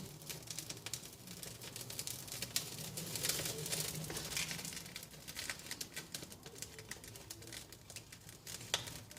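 Birch-bark tinder crackling irregularly as it catches fire, busiest a few seconds in, in a top-down laid wood fire.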